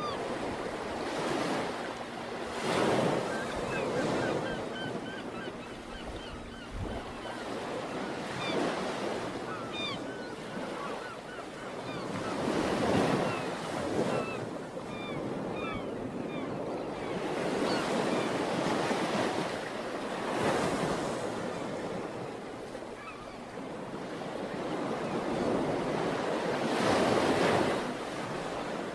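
Ocean waves breaking and washing on a shore, the surf swelling up every few seconds and easing back, with faint high chirps in the first half.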